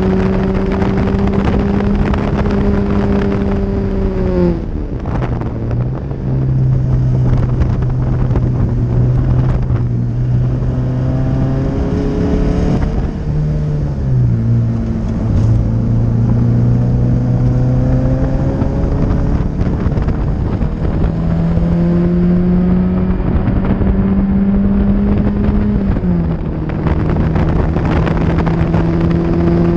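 1976 Lancia Scorpion's twin-cam four-cylinder, fitted with a hot exhaust cam, driven hard on track at high revs and heard from inside the open-top cockpit with wind rushing past. The revs fall away sharply about four seconds in, dip again around fourteen seconds, climb back up from about twenty seconds and drop once more near the end as the car lifts and shifts for corners.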